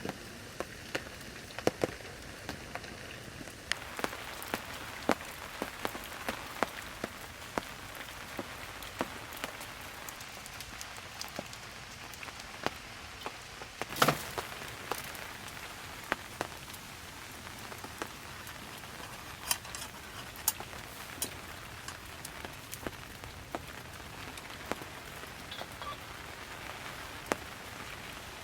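Wood fire crackling, with irregular sharp pops over a low hiss; one loud pop about halfway through.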